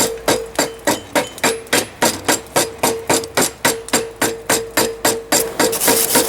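Hand hammer striking a hot railroad spike on an anvil in a steady rhythm of about four blows a second, the anvil ringing between blows as the spike head is forged down.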